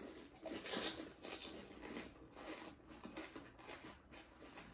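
Mouthfuls of panipuri being chewed: a crisp puri shell crunches about a second in, followed by quieter, irregular chewing.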